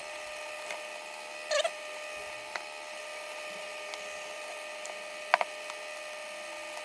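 A few light clicks and a short scrape of a portable power station's plastic casing and parts being fitted back together, over a steady electrical hum with a faint whine; the two sharpest clicks come close together a little after the middle.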